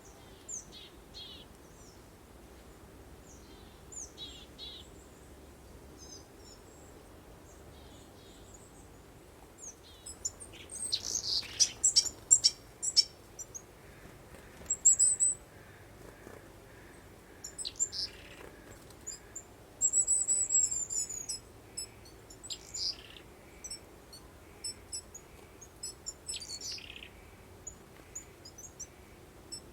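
Songbirds chirping and singing in scattered short calls and trills, busiest about a third of the way in and again around two thirds, over a faint steady hush of breeze.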